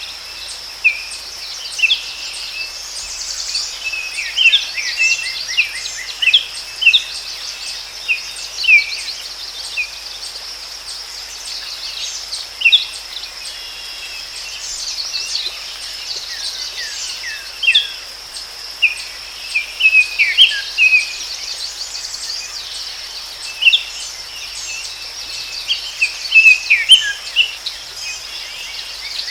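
Forest ambience: many birds chirping and calling in short bursts over a steady, high-pitched insect drone.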